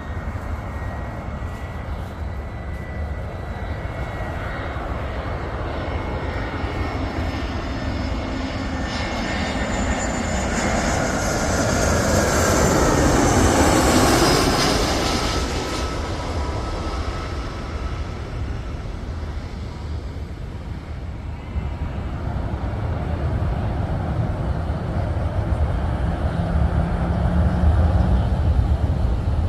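Airliner flying low overhead on its approach to land. Its engine sound swells to a peak about halfway through, with a whine that drops in pitch as it passes, then fades away.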